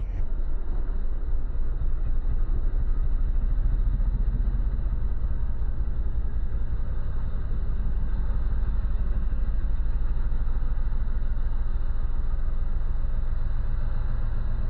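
Race car's engine idling steadily, a low even hum with a fast, fine pulse of its firing.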